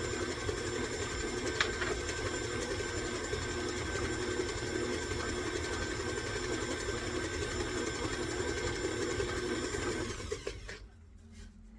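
Electric stand mixer running steadily as it creams butter and sugar, then switching off near the end.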